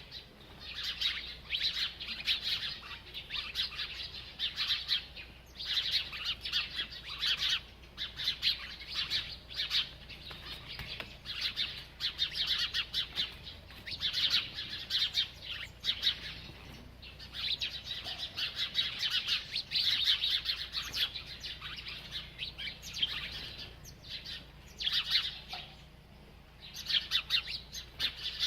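A small bird chirping rapidly and almost without pause, in quick high-pitched runs broken by brief gaps.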